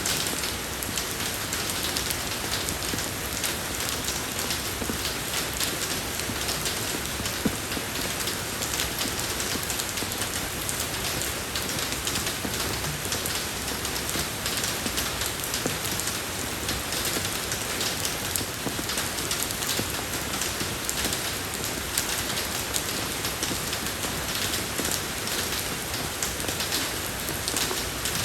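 Steady rain falling on a road surface, an even hiss with many fine pattering drop ticks.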